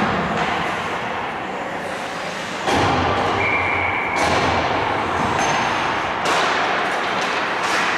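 Ice hockey play echoing in a rink: skates scraping the ice, with sticks and the puck knocking and thudding against the boards, and sudden loud knocks about three, four and six seconds in. A short steady high tone sounds for under a second around the middle.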